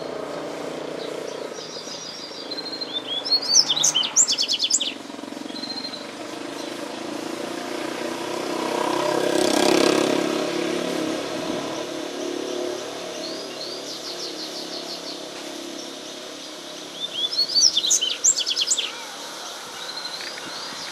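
Double-collared seedeater singing: two loud bursts of rapid, high chirping phrases, about three seconds in and again near the end, with a few softer notes between. In the middle a broad rushing noise swells up and fades away.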